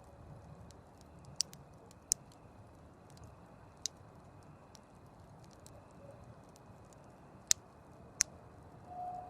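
Campfire crackling: sharp pops at irregular intervals over a low, steady hiss of burning wood. A short, faint tone sounds near the end.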